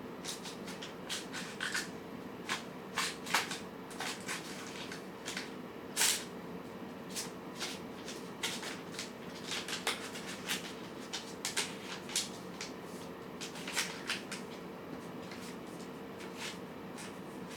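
Cats eating from bowls: irregular small crunching clicks, several a second, over a steady low hum.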